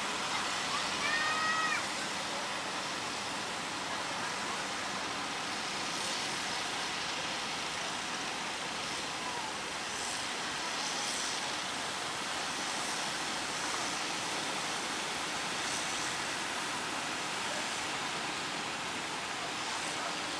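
Steady roar of heavy surf and wind, with faint hissing surges of breaking water now and then. A short high-pitched call, a shout or whistle, about a second in.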